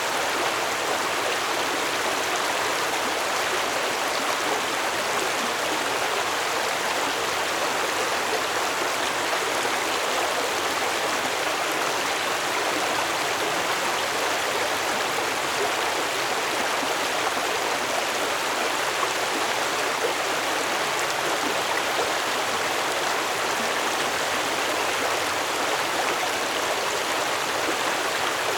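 Stream water flowing steadily over rocks, an even rushing and splashing that does not change.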